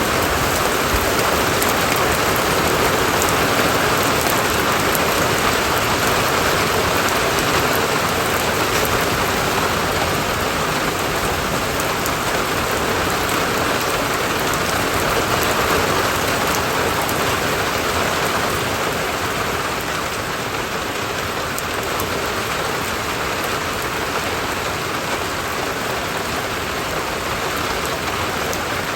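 Steady heavy rain falling and pattering on surfaces, easing slightly about two-thirds of the way through.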